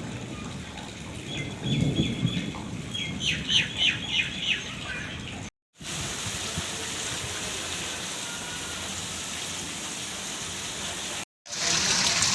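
Steady hiss of heavy rain and running water. A bird chirps a quick series of short notes in the first few seconds. The sound drops out abruptly twice, and after the second break the rush of water is louder.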